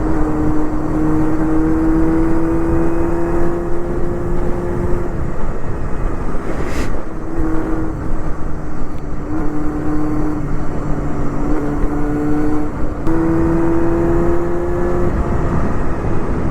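Honda Hornet 250's inline-four engine with a loud aftermarket Pretty Racing exhaust, running at high revs under way; its pitch climbs slowly, drops out as the throttle is eased, and picks up again several times, over steady wind and road noise.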